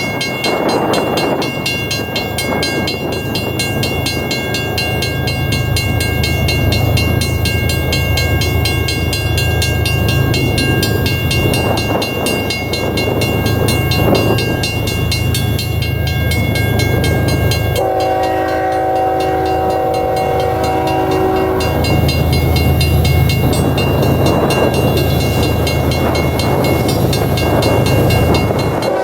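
Diesel freight locomotives (GE ES44C4 units) rumble through a grade crossing while the crossing's mechanical bell rings steadily. A locomotive air horn blasts for about four seconds, a little over halfway through.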